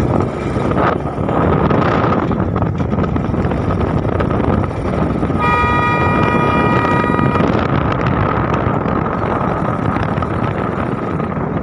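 Vehicle driving, a steady mix of engine and road noise with wind on the microphone; about five seconds in, a horn sounds for about two seconds.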